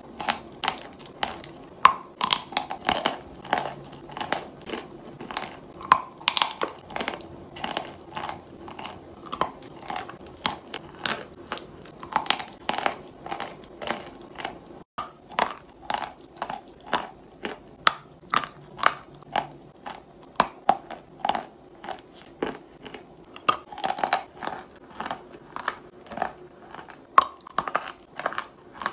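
Close-miked chewing of chalk, some of it coated with clay paste: crisp crunches and mouth clicks about twice a second as pieces are bitten and crushed between the teeth.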